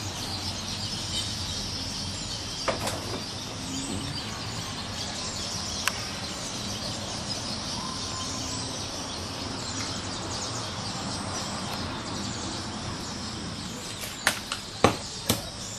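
Steady outdoor ambience of birds and insects chirping, with an occasional single knock, then a quick run of sharp strikes near the end from the work of building fence posts for the chicken run.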